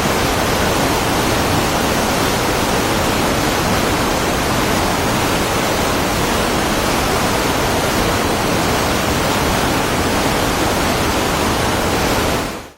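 Waterfall: a steady, even rush of falling water, fading out near the end.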